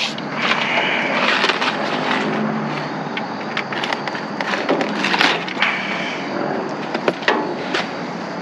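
Rummaging through a dumpster: packaging and trash rustling and crinkling steadily, with frequent sharp clicks and knocks as boxes and bags are moved.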